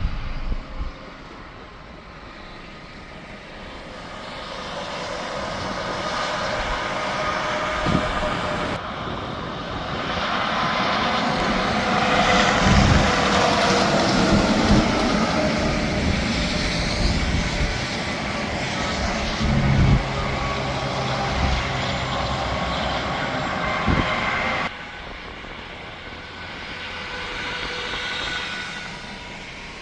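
Highway traffic passing at speed, with the rush of tyres and engines from trucks going by. It swells to its loudest in the middle and drops off abruptly near the end.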